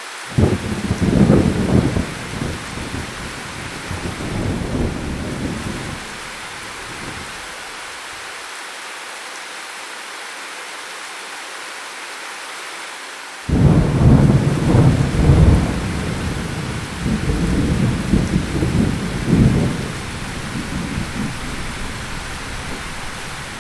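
Steady rain with two peals of thunder. The first breaks in suddenly just after the start and rumbles for about six seconds. The second, louder one breaks in suddenly about halfway through and rumbles on for about eight seconds.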